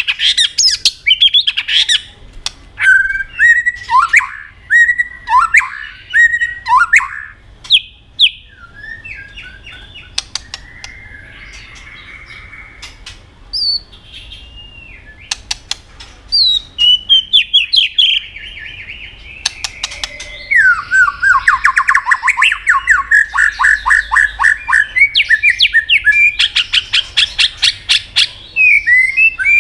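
White-rumped shama singing a varied song of whistled phrases mixed with sharp clicks. It goes quieter for several seconds partway through, then breaks into fast runs of rapidly repeated notes toward the end.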